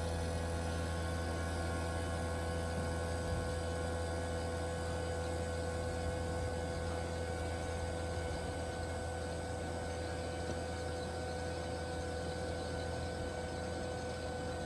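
Fieldpiece refrigeration vacuum pump running steadily with a low hum and a few steady whining tones, pulling a deep vacuum on a heat pump's refrigerant lines after a leak repair.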